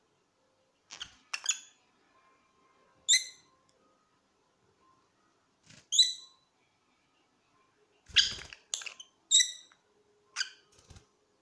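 Pet parrots giving short, shrill squawks and chirps, about nine in all, spaced out at first with silent gaps, then coming quickly one after another in the last few seconds.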